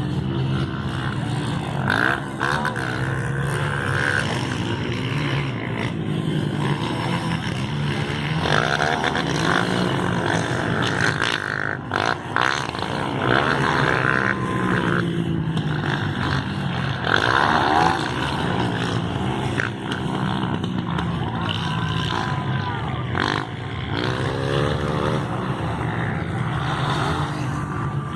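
Motocross motorcycle engines revving, their pitch rising and falling again and again without a break.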